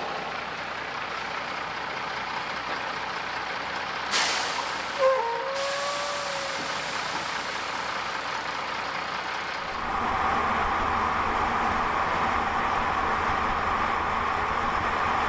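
Heavy truck traffic on a highway, with a short hiss of released air about four seconds in. From about ten seconds in, a truck's engine sound grows louder and steadier as it comes closer.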